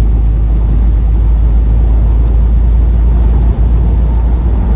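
Steady low drone of a semi-truck's engine and road noise heard inside the cab while driving at cruising speed.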